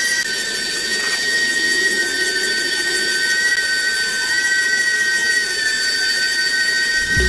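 Small brushed DC hobby motors driving a miniature rubber conveyor belt, running with a steady high-pitched whine of two close tones over a rough mechanical hum.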